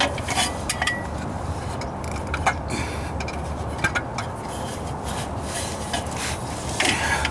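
Scattered light clicks and short scraping rubs as a caulking gun of seam sealer is handled and worked into place, over a steady low hum.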